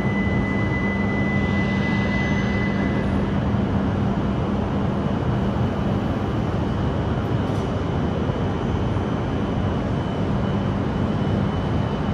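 E5 series Shinkansen slowly pulling out of the platform: a steady rumble with a low electric hum, and a high tone that dies away about three seconds in.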